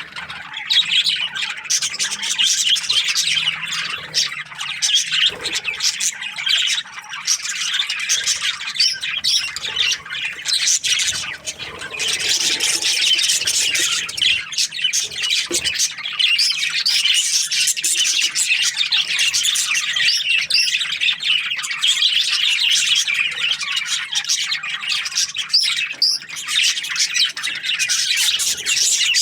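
A group of budgerigars chirping together without pause, many high calls overlapping.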